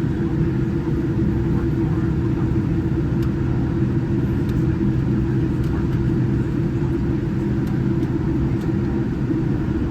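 Steady low engine rumble heard from inside a moving vehicle, with a constant hum over it and no change in pitch.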